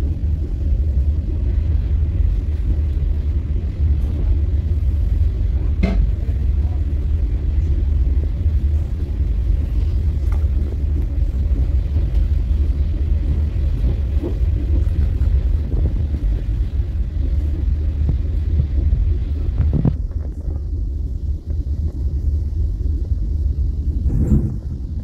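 Regional express train running at speed, heard from inside the carriage: a steady low rumble of wheels on rails, with a few sharp clicks about six seconds in, near twenty seconds and again near the end.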